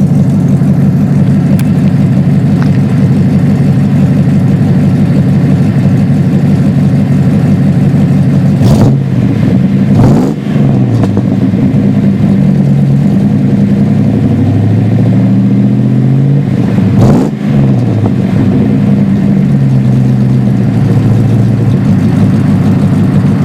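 5.2 Magnum V8 with a Magnaflow X-pipe dual exhaust idling steadily, revved twice: once about nine seconds in and again about seventeen seconds in. Each time it climbs quickly and drops back to idle.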